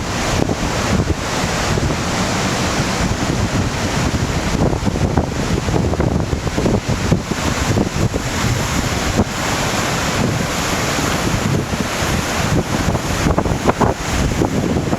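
Strong, gusty wind from an approaching typhoon buffeting the microphone, over the rush of sea waves and surf.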